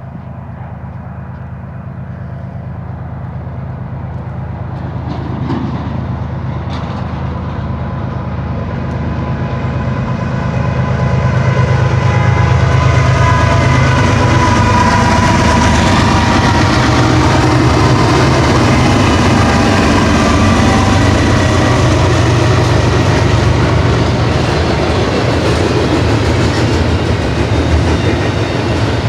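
A BNSF intermodal freight train led by GE diesel-electric locomotives (ES44C4, ET44C4 and ES44DC units) approaching and passing. The diesel engines' rumble and the wheels on the rails grow steadily louder for about twelve seconds, then stay loud as the train goes by.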